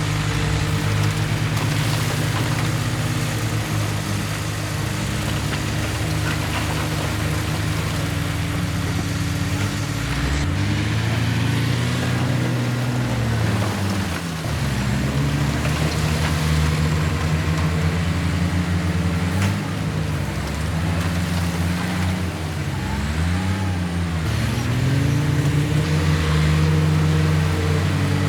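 Bulldozer's diesel engine working under load, its pitch dipping and climbing again several times from about ten seconds in as the revs drop and pick back up.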